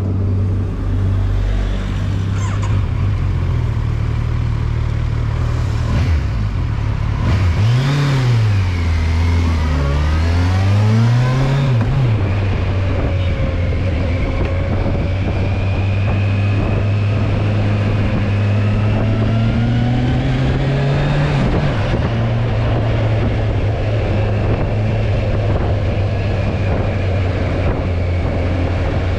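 Kawasaki Versys 1000's inline-four engine running while riding. Its pitch rises and falls a few times about a third of the way in, then climbs slowly and drops sharply about two-thirds of the way through.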